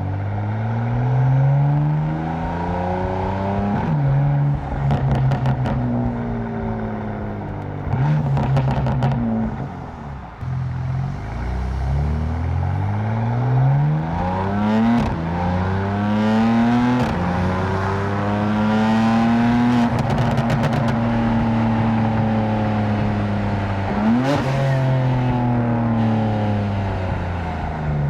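Tuned 750 hp BMW M4's twin-turbo straight-six pulling hard with the windows open, its pitch climbing and then dropping back at each upshift. Sharp pops and crackles from the exhaust come around the shifts.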